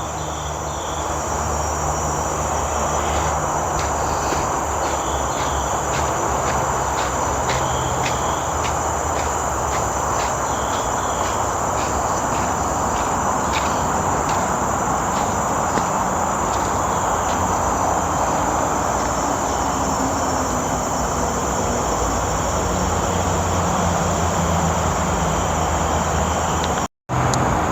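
Forest ambience: a steady high insect drone over a broad, even rushing noise. Through the middle there are regular footsteps, about two a second, on the trail.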